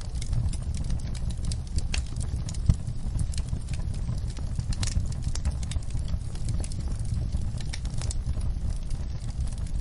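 Wood fire crackling in a fireplace: many small sharp pops and ticks over a low steady rumble, with one louder pop about three seconds in.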